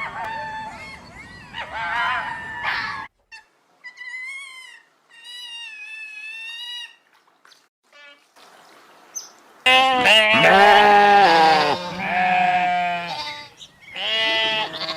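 Loud, quavering bleats of a farm animal, several in a row starting about ten seconds in. Before them come shorter, thinner, higher animal calls.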